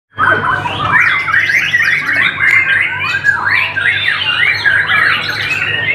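White-rumped shama (murai batu) singing without a break: a fast run of varied whistled phrases, rapid rising and falling glides, over a low steady hum.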